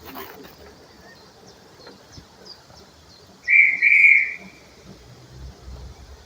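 A short, loud, high-pitched railway whistle sounds for about a second, just past the middle, with a brief dip partway through. A low rumble starts near the end.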